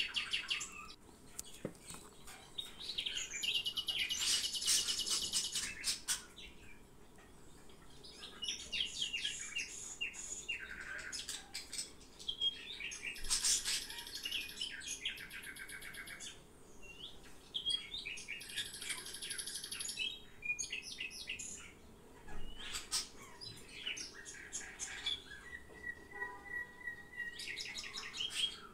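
A small songbird chirping and singing in rapid, high trills, in phrases of a few seconds with short pauses between them.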